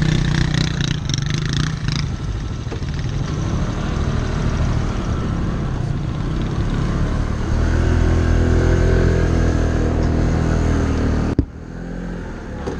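Motorcycle engine running, growing louder and steadier about halfway through as it is given throttle, then cutting off abruptly near the end.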